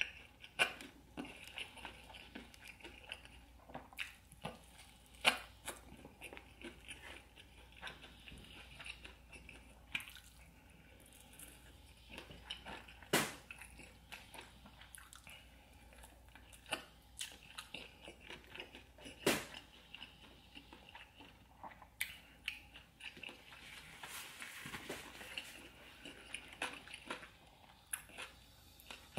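Close-miked eating sounds of a person chewing and biting crispy fried chicken in sauce: steady wet chewing broken by scattered sharp crunches.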